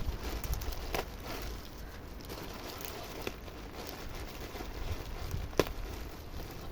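Scattered light clicks and patter of ducks pecking and dabbling at bread on the water, over a low rumble of wind on the microphone.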